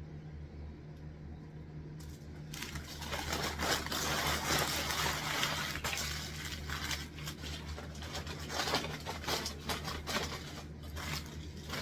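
Close-up eating and drinking mouth noises: dense crackling and clicking that starts about two and a half seconds in, over a steady low hum.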